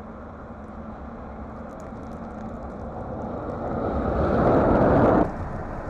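A vehicle approaching on a snow-covered road, a rushing tyre-and-engine noise that grows steadily louder and then cuts off suddenly about five seconds in.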